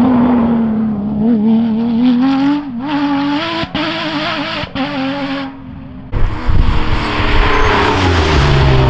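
Porsche rally car engine at high revs, its pitch wavering up and down with brief dips between gears. About six seconds in it gives way abruptly to a louder, rougher car sound with heavy rumble and tyre noise.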